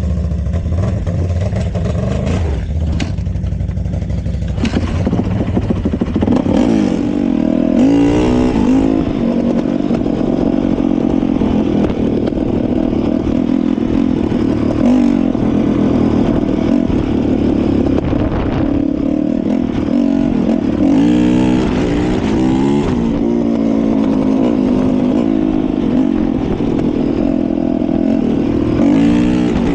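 Dirt bike engine firing up and idling for a few seconds, then revved up and down repeatedly, its pitch rising and falling several times.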